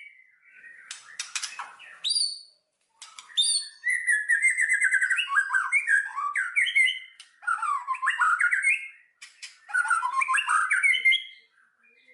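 A songbird singing in several fast warbling phrases of quick rising and falling chirps, with short pauses between phrases.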